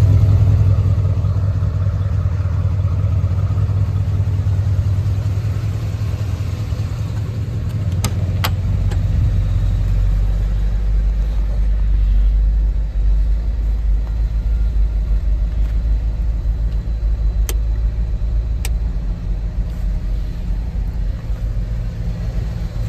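Corsair roadster's engine idling steadily on its own, nobody on the gas, still warming up after a cold start. It is heard first at the chrome tailpipe, then from inside the cabin, where the hum sits lower. A few sharp clicks come in the middle.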